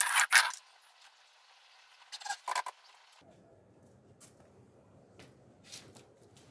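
Metallic clattering and scraping as a floor jack and its handle are dragged across a tiled floor, with a second short burst of clanks about two seconds in.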